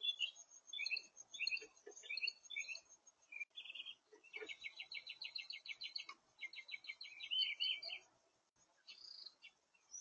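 Songbirds singing: short high chirpy phrases, then two rapid, even trills about four and six seconds in.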